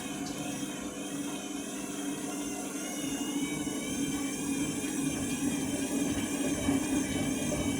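Washing machine spinning an out-of-balance load: a steady motor hum with a whine that wavers in pitch, slowly getting louder as the drum struggles to get up to speed.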